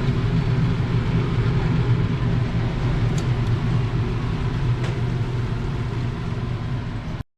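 Steady low mechanical hum and rumble with no speech over it, cutting out abruptly near the end.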